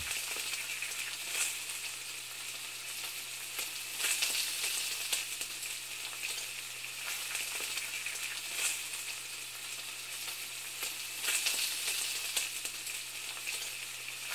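Food frying and sizzling: a steady hiss with irregular crackles and a few louder pops along the way.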